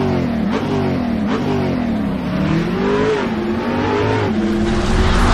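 A car engine revving, its pitch rising and falling again and again and getting louder toward the end.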